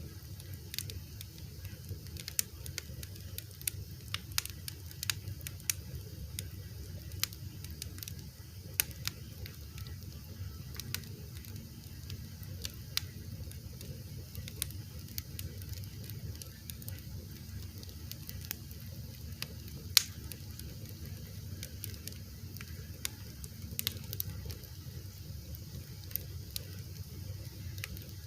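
Fire crackling: irregular sharp pops and snaps over a low steady rumble, with one louder pop about twenty seconds in.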